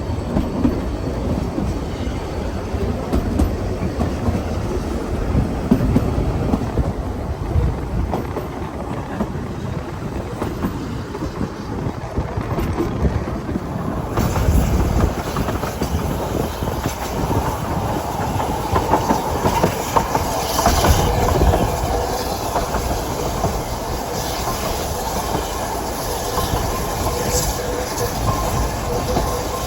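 Ffestiniog Railway narrow-gauge train running on the line: a steady rumble of wheels on rail with rhythmic clickety-clack over the rail joints. About halfway through the sound turns brighter and hissier.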